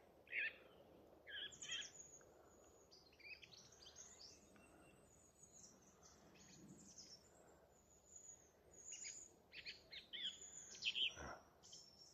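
Song thrush singing faintly: short, varied phrases of high, clear notes with pauses between. A brief click sounds near the end.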